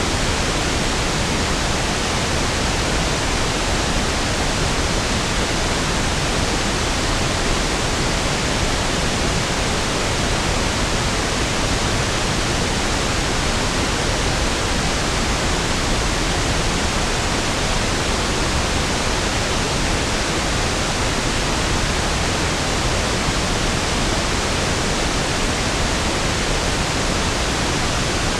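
Steady pink noise (1/f noise): an even, unchanging hiss with equal energy per octave, softer and deeper than white noise.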